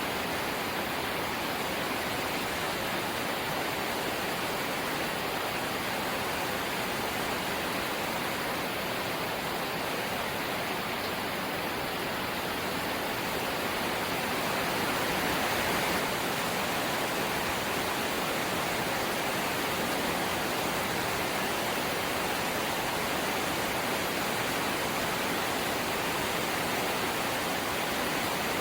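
Steady heavy rain drumming on a corrugated zinc sheet roof, a dense unbroken hiss that grows a little louder about halfway through.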